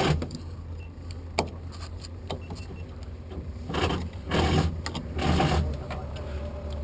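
Handling noises inside the car over a steady low hum: one sharp click about a second and a half in, then three short rustling bursts near the middle.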